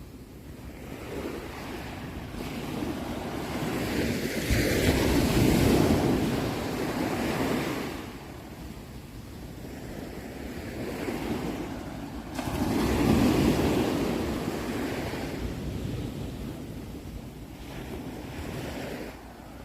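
Sea waves surging and washing in, two big swells about seven seconds apart, each rising and then fading away.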